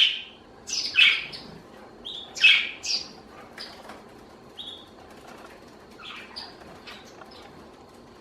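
Pet budgerigar giving a series of short, sharp chirps, loudest in the first three seconds, then fainter and more spaced out.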